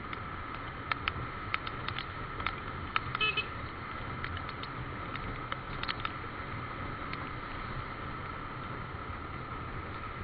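Motorcycle riding with steady engine and road noise, scattered sharp ticks, and a brief horn toot about three seconds in.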